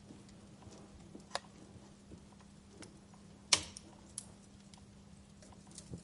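Wood fire crackling: scattered sharp pops and ticks, the loudest about three and a half seconds in, over a faint steady hum.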